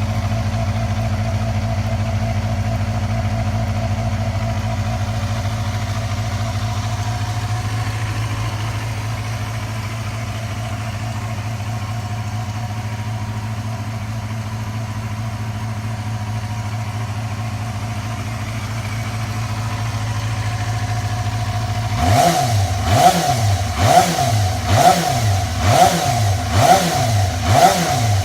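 Yamaha FZR250's inline-four engine idling steadily, then revved in a quick series of throttle blips, about one and a half a second, over its last six seconds.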